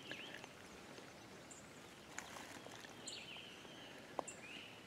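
Quiet outdoor background with small birds chirping and calling now and then, and a single sharp click about four seconds in.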